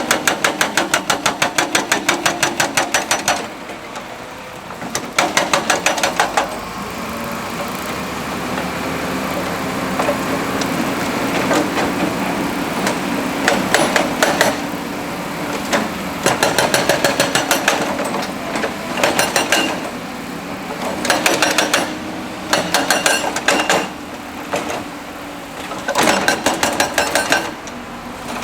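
Excavator-mounted hydraulic rock breaker pounding rock in repeated bursts of rapid blows, about eight a second, each burst lasting one to three seconds. The diesel engine drones between the bursts.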